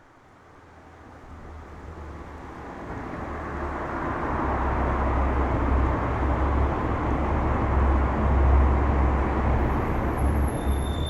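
BMW M2's turbocharged straight-six exhaust through an Akrapovic Evolution Line muffler as the car pulls away, a deep low drone that grows from faint to loud over the first few seconds and then holds steady.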